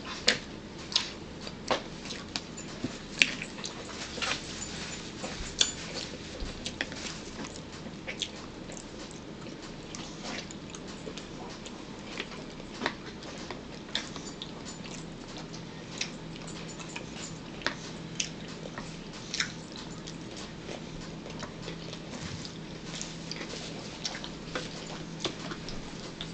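Irregular short clicks and smacks of eating and chewing, about one every second or so, over a faint steady low hum.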